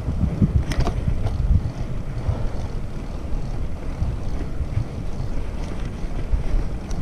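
Wind buffeting the microphone during a bicycle ride: a loud, gusting low rumble, with a few light clicks about a second in.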